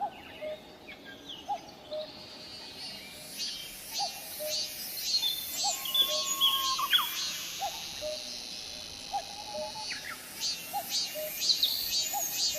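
A common cuckoo calls its low two-note "cuck-oo" over and over, about every second and a half, among the quick chirps and trills of other songbirds. From about two seconds in, cicadas add a high, pulsing buzz.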